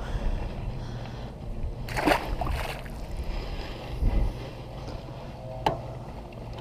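Wind rumbling on the microphone while a largemouth bass is handled and released into the water, with a short splashing burst about two seconds in, a low knock a couple of seconds later and a sharp click near the end.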